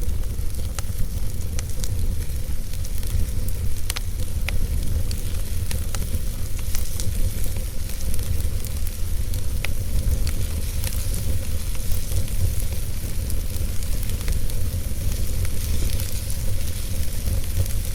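Fire burning in a fireplace, with a steady low rumble and hiss under irregular sharp crackles and pops.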